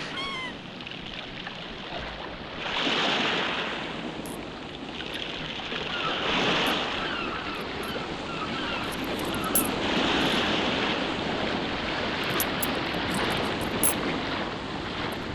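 Sea waves washing in, the surf swelling and falling back about every three to four seconds, with short faint chirps over it.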